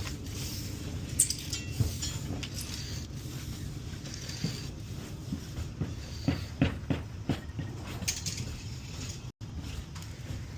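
Scattered light clicks and knocks from work on a shingle roof, over a steady low rumble.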